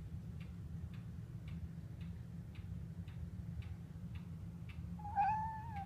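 A clock ticking about twice a second over a low steady hum. Near the end a domestic cat gives one drawn-out, slightly wavering whining meow.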